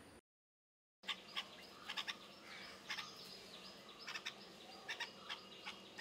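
Bird chirping: short, sharp, high calls in irregular clusters, starting after about a second of silence.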